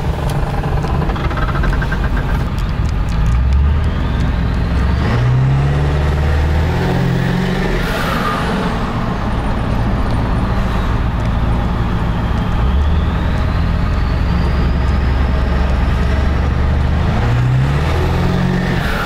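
7.3 L Power Stroke turbo-diesel V8 pulling under acceleration with its exhaust tip removed, heard from inside the cab with the windows down. The low engine note climbs and drops back at a shift twice, about six seconds in and again near the end, while a high turbo whistle rises and falls over it.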